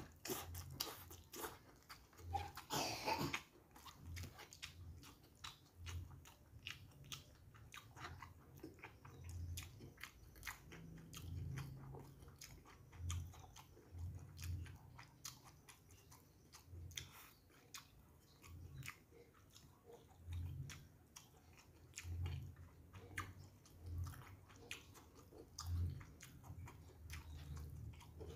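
Mouth sounds of a man eating noodles and rice by hand: steady chewing with many wet clicks and smacks, louder for a moment about three seconds in.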